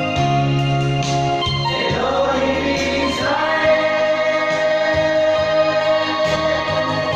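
Vocal group singing a gospel song over held instrumental chords, with a wavering solo vocal line about two to three seconds in.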